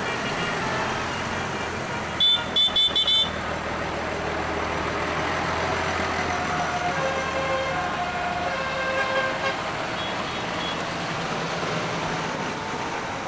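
Tractor engines running steadily, with a vehicle horn giving a quick run of short toots about two seconds in.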